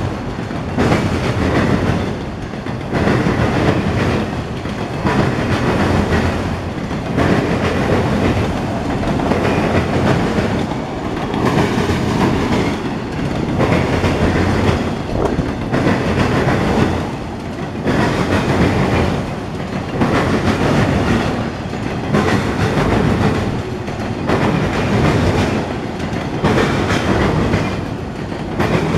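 Freight train's autorack cars rolling past close by: a steady heavy rumble with the clickety-clack of wheels over rail joints, swelling and easing about every two seconds as the cars' trucks go by.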